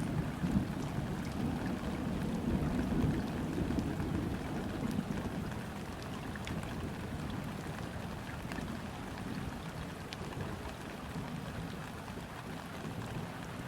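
Rain falling on a river's surface, a steady patter of scattered drops. A low rolling rumble of distant thunder sits under it in the first half and fades away by about halfway through.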